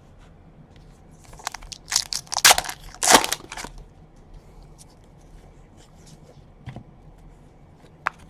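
Foil trading-card pack wrapper being torn open and crinkled: a burst of sharp crackling from about a second and a half in to nearly four seconds, then a few faint ticks as the cards are handled.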